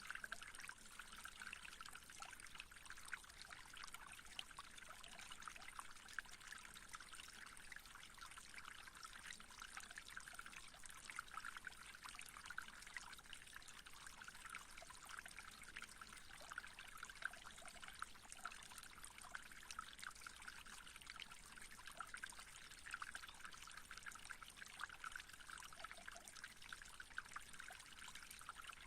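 Faint, steady trickle of running water, like a small stream babbling without a break.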